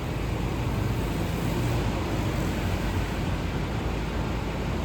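Steady vehicle engine hum and road noise.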